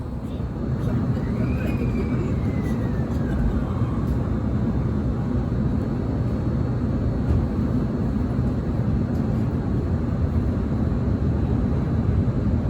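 Electric train running, heard from inside the carriage: a steady low rumble from the wheels and track, with a faint whine that falls in pitch during the first few seconds.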